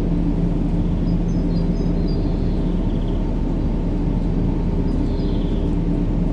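Steady low, rumbling white noise of the kind played to help a baby sleep, unchanging in level, with a faint hum under it. A few faint high chirps come through about a second in and again near the end.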